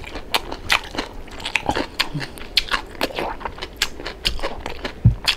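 Close-miked chewing and biting of crispy deep-fried pork knuckle (crispy pata), with irregular crunches and crackles several times a second. A dull low thump comes near the end.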